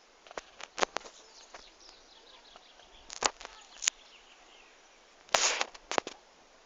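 Faint chirping of small birds in the background, broken by a series of loud, sharp clicks and knocks at irregular intervals, with a brief rustling burst a little past the middle.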